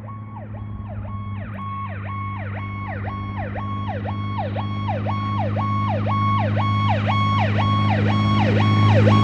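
Fire engine's electronic siren on a fast yelp, wailing up and down about twice a second, over a steady low drone. It grows steadily louder as the fire engine approaches.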